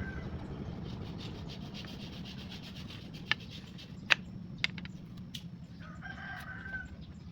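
Steady rubbing or sanding of wood, with a few sharp clicks in the middle. A short pitched call sounds about six seconds in.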